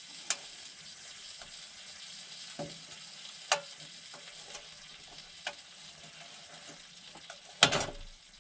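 Electric arc welding: a steady frying crackle as a nut is welded onto the head of a stripped, stuck screw, with a few sharp pops along the way and a louder burst of crackling near the end.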